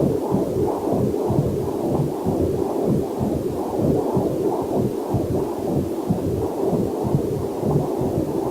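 Heartbeat picked up by a fetal Doppler heart monitor: a fast, even run of pulsing beats, a little over two a second.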